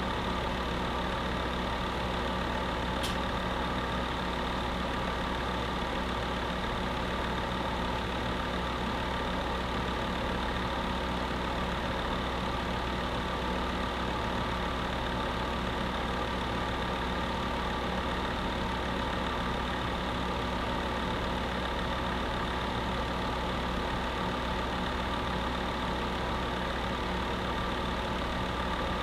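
Space heater running with a steady, even hum and whir, a constant drone with several steady tones. A faint tick about three seconds in.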